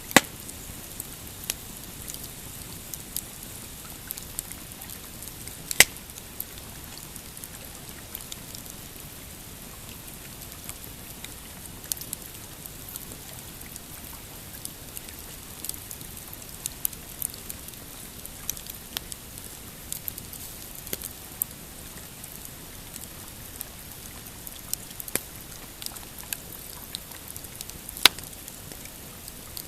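Pine campfire crackling, with frequent small snaps and a few loud pops: one right at the start, one about six seconds in and one near the end.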